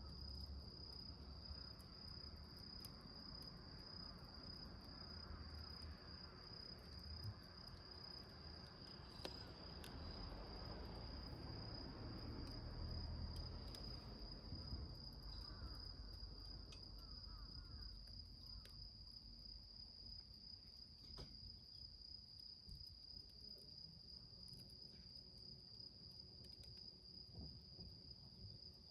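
Crickets trilling steadily in a high, unbroken tone, with faint scattered crackles from wood burning in a small can fire.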